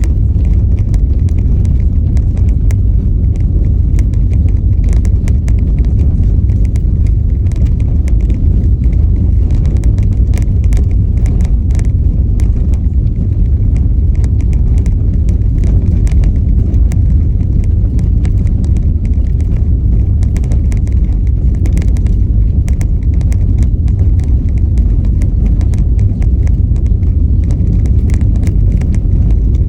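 Car driving slowly over a rough, stony road: a steady low rumble of tyres and road noise with many small irregular clicks and rattles of stones under the wheels.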